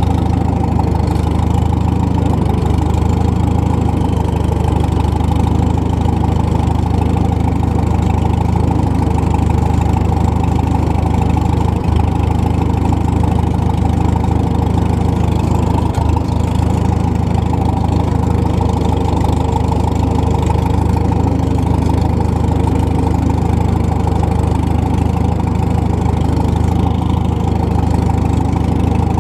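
McCormick W-4 tractor's four-cylinder engine running steadily, an even low-pitched note that holds without revving.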